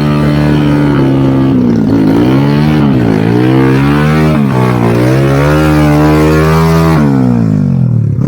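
A vehicle engine running hard, its pitch dipping and rising several times as the revs change, then falling away about seven seconds in.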